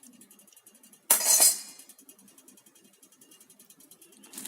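A brief clink and clatter of kitchenware about a second in, lasting about half a second, as the spices go into the bowl of beaten eggs.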